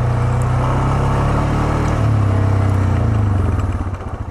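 ATV engine running steadily, then easing off near the end to a lower, evenly pulsing idle.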